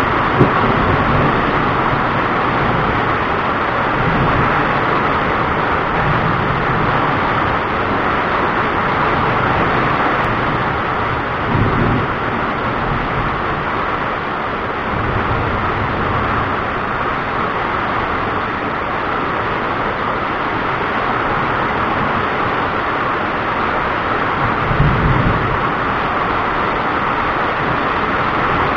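Steady hiss of heavy thunderstorm rain, with low rolls of thunder rising out of it several times.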